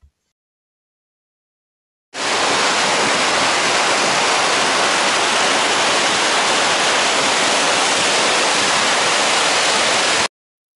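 A 100-foot single-drop waterfall rushing: a loud, steady, even noise of falling water that starts suddenly about two seconds in and cuts off abruptly near the end.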